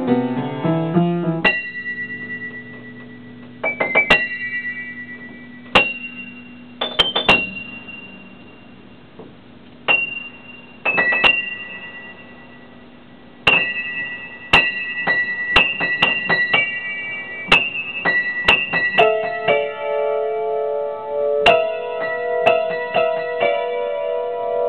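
Solo piano improvisation: sparse, separate high notes ringing out one or two at a time over a held low note. From about three-quarters of the way through, a denser, repeated figure of middle-register notes takes over.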